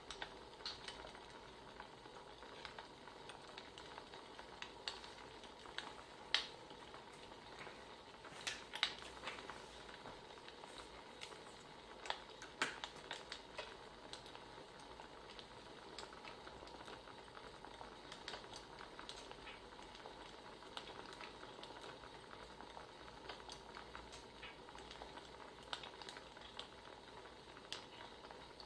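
Wood fire crackling faintly over a steady hiss, with irregular sharp pops.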